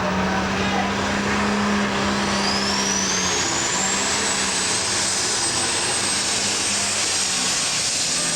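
Diesel super stock pulling tractor's engine running flat out under load down the pulling track. A high turbocharger whine climbs about two seconds in and then holds steady over the engine.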